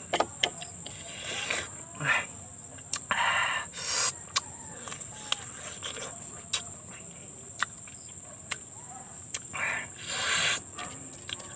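Close-up eating sounds of a man biting and chewing green siniguelas fruit: short crunchy bites a few times and many small wet mouth clicks and smacks. A steady high-pitched insect drone runs underneath throughout.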